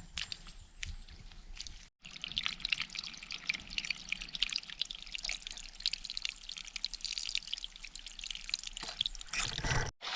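A few scattered steps at first. After a cut, water trickles and splashes steadily over rocks in a small stream. The sound breaks off at another cut near the end.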